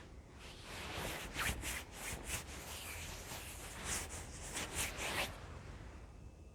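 Irregular rubbing strokes on a wooden surface by hand, for about five seconds, stopping near the end.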